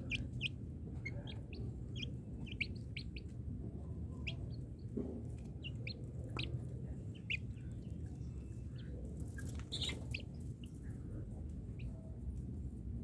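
Chicks peeping: short, high chirps scattered irregularly throughout, over a steady low background noise.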